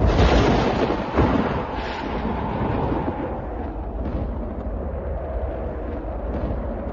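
A loud thunderclap at the start, followed by several seconds of rolling thunder rumble that slowly eases off.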